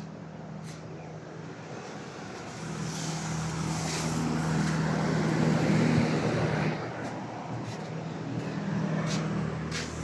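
A motor engine running with a steady hum. It grows louder from about two and a half seconds in, is loudest around six seconds, then eases off.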